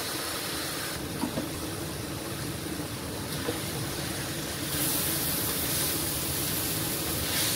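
Spice paste, tempeh, chicken and cassava leaves sizzling in hot oil in a pan, with a couple of light utensil taps; the hiss grows louder and brighter about five seconds in.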